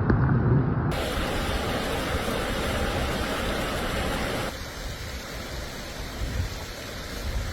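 Rushing floodwater: a steady noisy rush of water that changes abruptly about a second in and again about halfway through.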